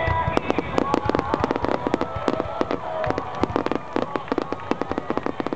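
Fireworks crackling overhead: a dense run of sharp pops, many per second.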